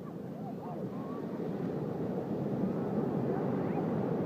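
Steady low rushing of ocean surf and wind, slowly growing louder.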